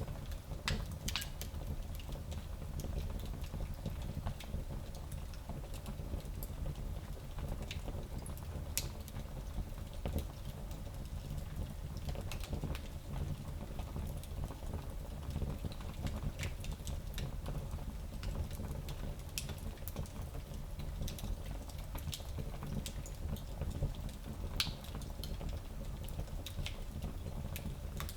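Fire crackling in a fireplace: a steady low rumble of the flames with scattered sharp pops and snaps.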